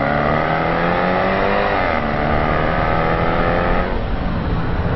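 2013 Range Rover Sport's engine accelerating hard, its note climbing, dropping once at an upshift about two seconds in, then climbing again. Near the end the engine note gives way to a rush of road and wind noise.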